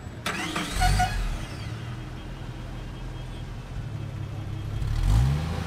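A car door shuts with a thump, then the Honda City sedan's engine starts and runs steadily. Near the end it revs up, rising in pitch.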